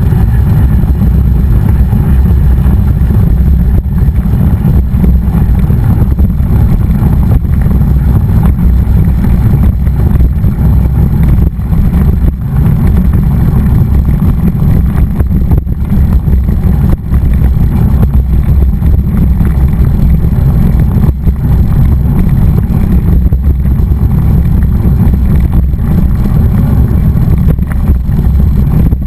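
Loud, steady low rumble of wind buffeting the microphone of a camera riding along on a moving mountain bike.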